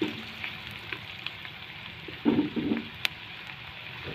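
Chopped garlic and onion sizzling and crackling in melting butter in a wok while a silicone spatula stirs them. A brief louder noise comes a little past halfway, and a sharp click follows about three seconds in.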